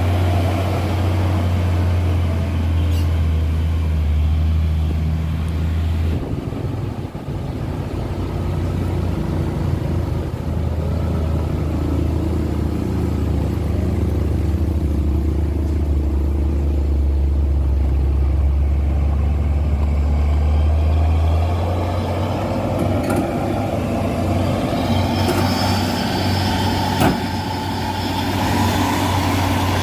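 Heavy tronton truck's diesel engine running with a steady low drone, its note shifting slightly twice. A single sharp click sounds near the end.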